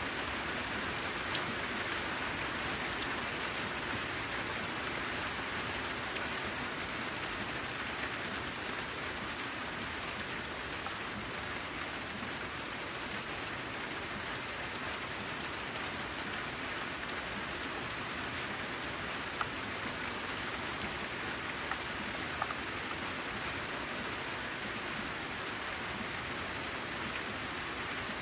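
Steady rain falling on a corrugated metal (zinc) roof, an even hiss with a few single drops ticking out louder now and then.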